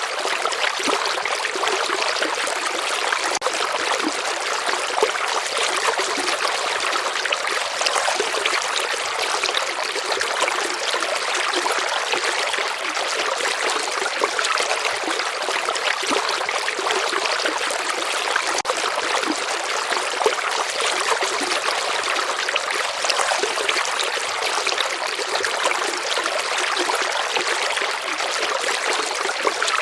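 Gently flowing river water: a steady, even trickling rush with almost no low rumble.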